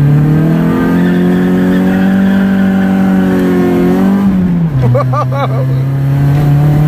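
Mazda Miata's four-cylinder engine pulling hard under full throttle. It climbs steadily in pitch for about four seconds, drops sharply as it shifts up a gear, then pulls on at a lower pitch.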